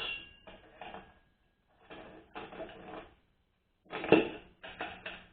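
Metal automatic-transmission parts being handled and fitted together on the bench: several short runs of clinking and rattling, with a brief metallic ring at the start and a sharper knock about four seconds in.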